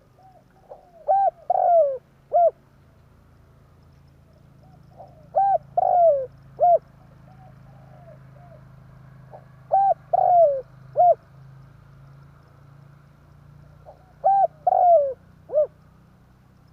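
Spotted dove (tekukur) cooing, its song phrase repeated four times about every four and a half seconds. Each phrase is a few short coos, then a longer falling coo and a short closing note. A faint low hum runs underneath.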